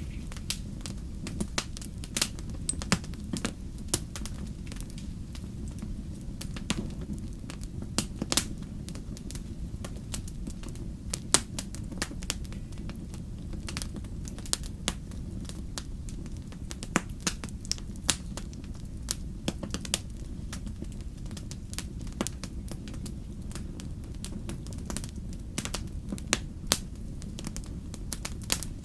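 Wood fire in a fireplace crackling, with a steady low rumble of flames and irregular sharp pops and snaps, several of them loud.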